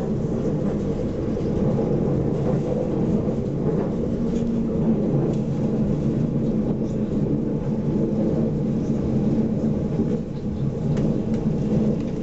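Steady rumble of a moving passenger train, heard from inside the carriage: the running noise of the wheels on the rails.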